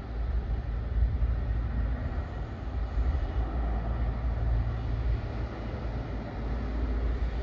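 Airbus A330 jet noise: a steady deep rumble with a hiss above it.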